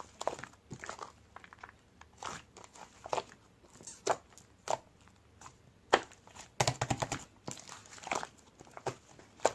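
Cheese-fondue slime being squished and pressed by hand, giving irregular crackling pops, with a quick run of clicks about two-thirds of the way through.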